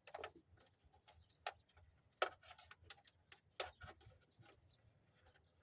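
Quiet, scattered light clicks and taps at irregular spacing from hands working on a truck's wiring, the sharpest about two seconds in.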